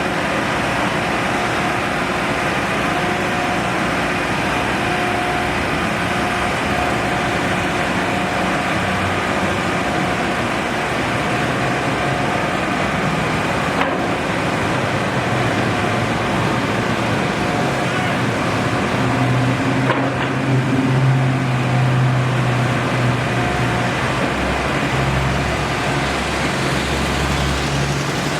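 Steady road traffic noise with a constant hum. A heavy vehicle's engine drone grows louder about two-thirds of the way through, then eases off.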